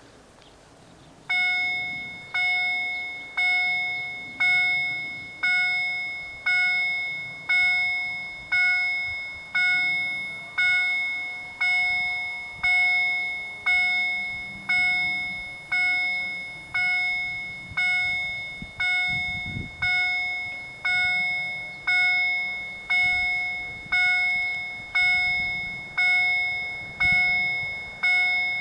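Level crossing warning bell starting suddenly about a second in and striking about once a second, each ring dying away: the crossing's warning for an approaching train.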